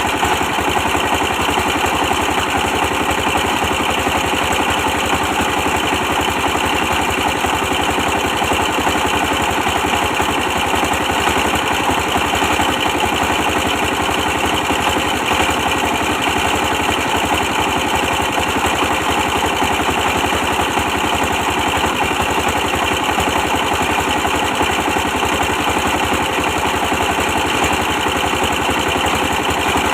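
A 24 hp diesel engine running steadily at a constant speed, with a rapid, even low beat from its firing.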